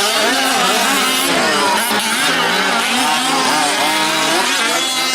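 Several 1/5-scale gas RC trucks' small two-stroke engines revving and easing off as they race, their pitches overlapping and rising and falling.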